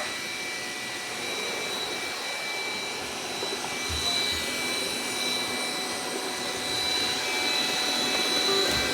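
Robot vacuum cleaner running as it cleans: a steady whir from its suction motor with a thin, high, steady whine. There is a soft low thump about four seconds in and another near the end.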